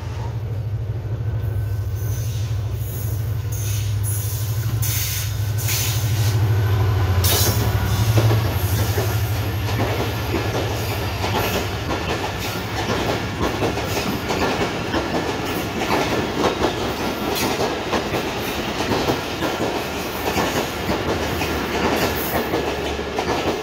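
Diesel-hauled passenger train passing at speed: a low engine drone from the EMD locomotive for the first several seconds, then a continuous rapid clatter of the coach wheels over the rail joints.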